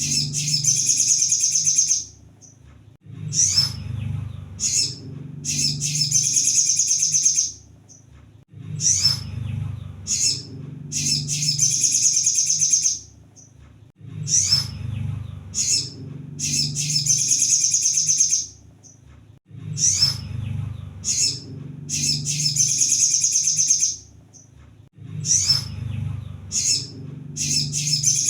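Crimson sunbird (kolibri sogon) singing in repeated phrases about every five to six seconds: a few sharp high notes, then a long, fast, high trill.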